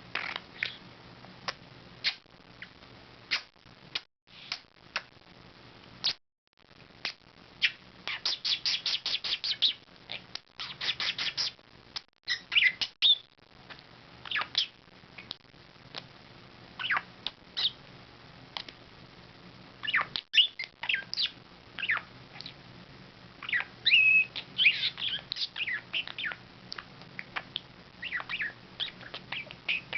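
Pet budgerigar chattering: a busy stream of short chirps, clicks and squeaks, with quick runs of clicks about eight and eleven seconds in and a few brief whistled notes.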